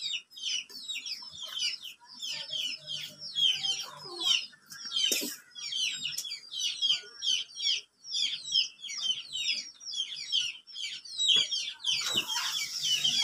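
Birds chirping rapidly and without a break: many short, high chirps, each falling in pitch, several a second, busier and louder near the end.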